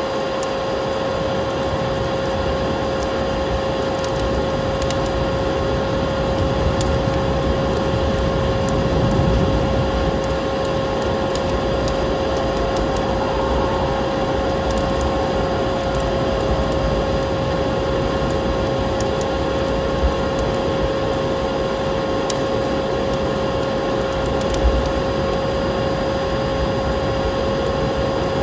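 Vacuum cleaner motor running steadily, a constant drone with a fixed whine, layered over the scattered snapping crackles of a wood fire.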